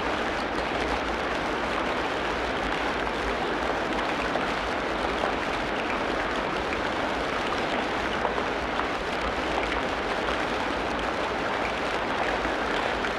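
Tropical rainforest ambience of steady rain falling on foliage: a dense, even patter of drops with no birdsong or other calls standing out.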